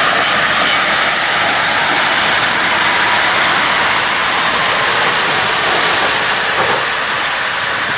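A train running past close by: a loud, steady noise of wheels rolling on the rails.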